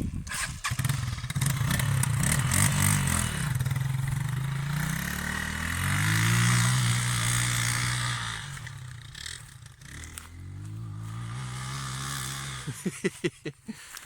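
Motorcycle engine running under throttle: it revs up, holds at its loudest for a couple of seconds, eases off, then pulls again before cutting out near the end, followed by a few short knocks.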